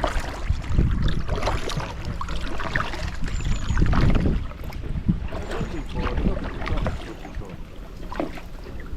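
Kayak paddle strokes dipping and splashing in river water at an irregular pace, over a low rumbling noise.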